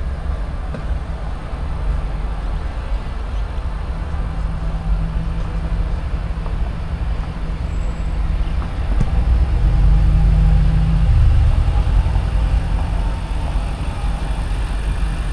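Steady low rumble of road vehicles running, swelling louder about ten seconds in and easing off again.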